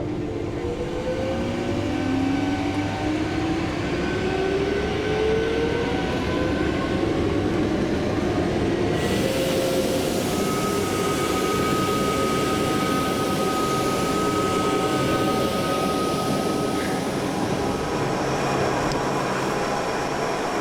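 Electric rack train of the Gornergrat Railway running, its motor whine rising in pitch over the first several seconds as it picks up speed, over steady rolling noise. About nine seconds in, the hiss turns suddenly brighter.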